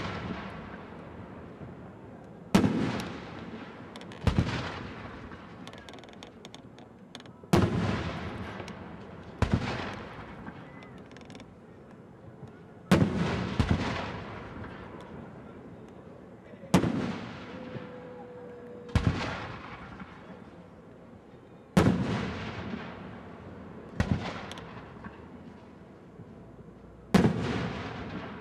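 Fireworks display: aerial shells bursting one after another, about every two to three seconds, each a sharp bang with a long echoing tail.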